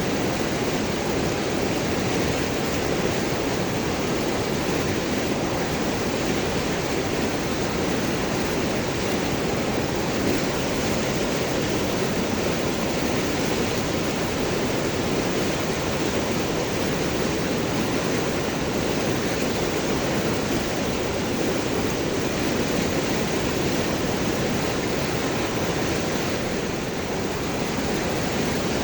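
River water rushing and gurgling over large rocks, a steady dense noise with no break.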